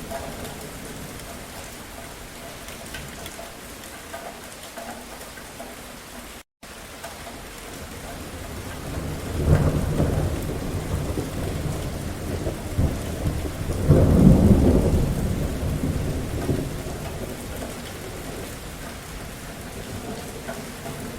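Steady rain falling, with thunder rumbling in two swells: one about nine seconds in and a louder, longer roll around fourteen seconds, fading out after. The sound cuts out for a split second about six seconds in.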